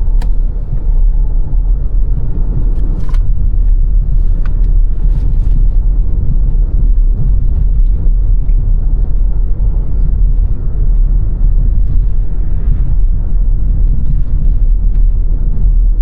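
Car driving along a road: a steady, loud low rumble of road and tyre noise, with a few faint short ticks.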